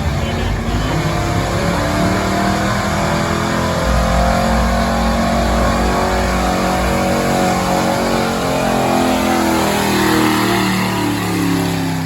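Stock gasoline pickup truck engine held at high revs under full load, pulling a weighted sled; the engine pitch drops away near the end.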